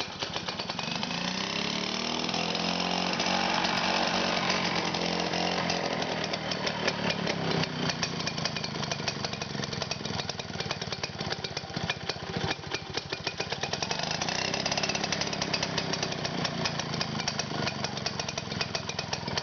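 Victa 18 Rotomo two-stroke mower engine running, its speed shifting in the first few seconds and then holding fairly steady with a rapid, even firing beat.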